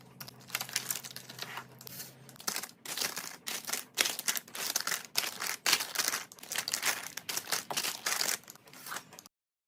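Plastic packaging crinkling and rustling as it is handled during a restock, in dense irregular crackles and clicks. It cuts off suddenly near the end.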